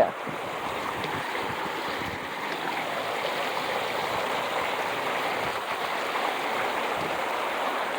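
Water rushing steadily over small waterfalls in a stream, an even hiss with no change in level.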